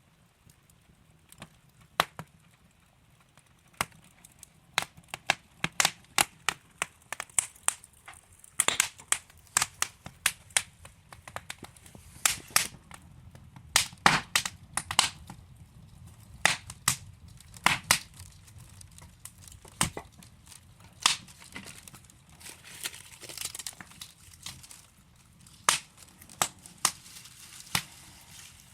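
Wood fire burning in a fireplace, logs crackling with irregular sharp pops and snaps over a soft low hiss. The pops come sparsely at first and grow busier after about five seconds.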